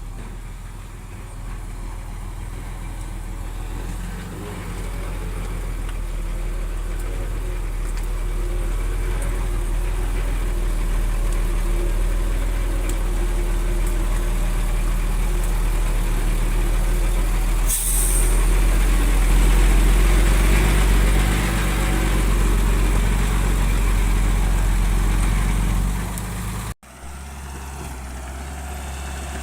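Heavy diesel engine of earthmoving machinery running and working under gradually rising load, with a short sharp hiss about two-thirds of the way through. An abrupt cut near the end leads to a steadier engine sound.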